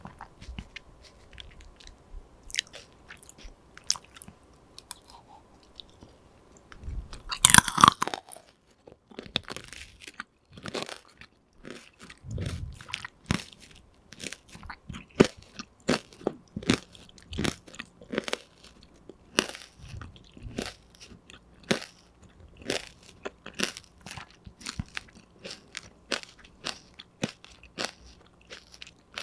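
Close-miked crunchy chewing and biting of a hard snack, with many sharp, irregular crunches. One loud crunching bite comes about seven seconds in.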